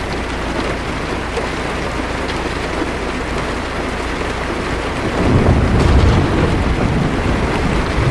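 Heavy rain falling steadily on a car's windshield, heard from inside the car. About five seconds in, a low thunder rumble swells up and goes on rolling.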